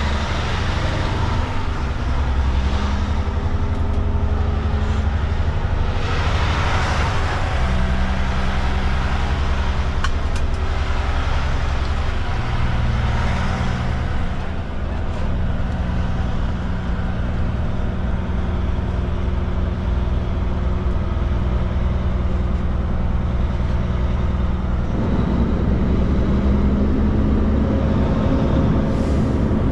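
Kenworth K200 cabover truck's Cummins diesel engine running steadily, its pitch stepping up or down three times as the engine speed changes.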